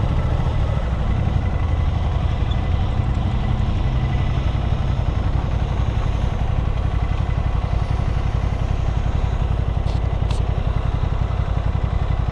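Motorcycle engine running steadily with a low, even rumble. Two short clicks sound about ten seconds in.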